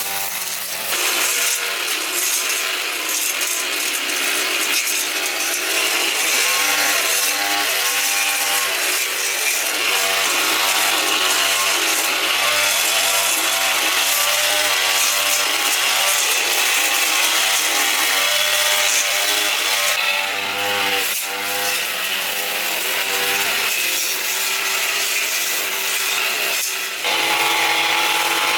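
A handheld power tool running and cutting, its motor pitch wavering as it comes under load, with a brief dip near the end.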